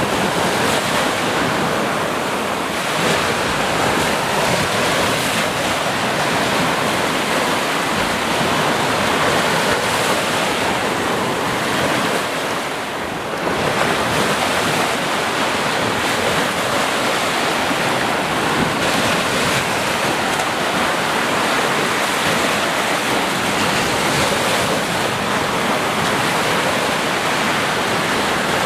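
Sea waves and surf washing continuously, a dense steady rush of water that eases briefly about halfway through before building again.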